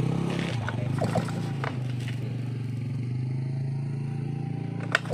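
Stihl 070AV chainsaw's two-stroke engine idling steadily just after starting, with a few sharp clicks about a second in and near the end.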